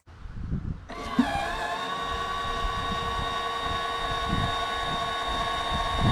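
Electric linear actuator motor whining steadily as it tilts the outboard motor, starting about a second in with a brief dip in pitch before holding level, over a low rumble.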